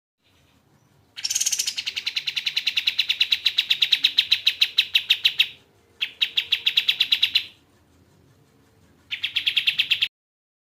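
Kapas tembak songbird calling in a fast, even trill of rapidly repeated high notes, given in three bursts: a long one, a shorter one, and a brief one near the end.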